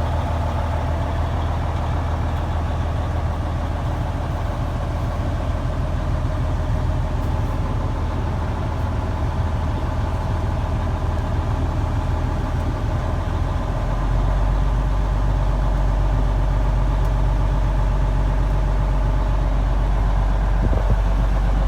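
Cummins N14 inline-six diesel of a 1996 Kenworth truck idling steadily just after a cold start, heard from inside the cab. About two-thirds of the way through its low hum drops deeper and gets a little louder.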